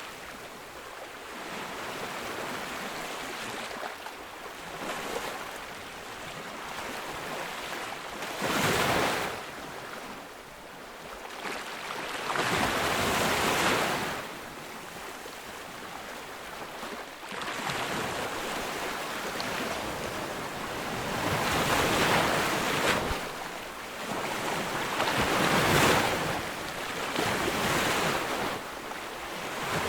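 Ocean waves breaking on a beach in a steady wash of surf, with a louder crash every few seconds.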